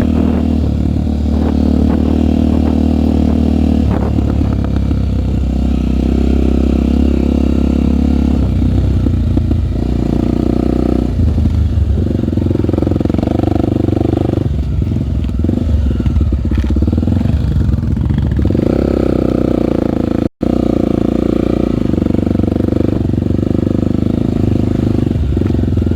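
Honda single-cylinder four-stroke trail motorcycle engine running under way, its pitch stepping up and down every few seconds as throttle and gears change.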